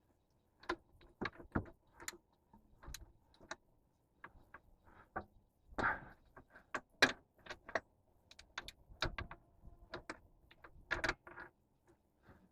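Hand tools and metal parts clicking, clinking and knocking irregularly during work on a truck engine's belt drive, as the belt is taken off to change the idler pulley. The loudest knocks come about six, seven and eleven seconds in.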